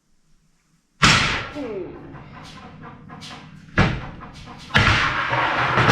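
Heavy metal bangs and scraping from a 3-foot pipe wrench being worked to tighten a rebuilt hydraulic lift cylinder: one sharp bang about a second in, two more a few seconds later, and the last runs into a longer stretch of grinding noise.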